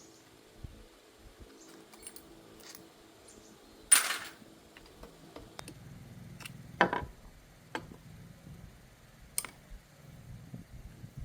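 Small metal parts and hand tools clinking and knocking while an engine is worked on: scattered sharp clicks, a loud clatter about four seconds in and another sharp clink near seven seconds.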